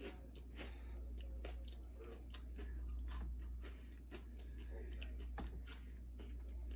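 Close-up chewing of Doritos nachos: irregular crunches and wet mouth clicks as the chips are bitten and chewed, over a steady low hum.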